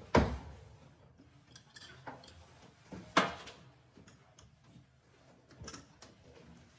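A few sharp knocks and clatters of hard objects being handled. The two loudest come near the start and about three seconds later, with fainter taps between them and after.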